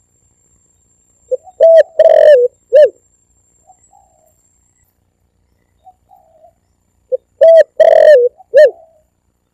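Spotted dove (tekukur) cooing. It gives two phrases about five seconds apart, each a short note followed by three or four loud, rounded coos, with faint softer notes in the gap.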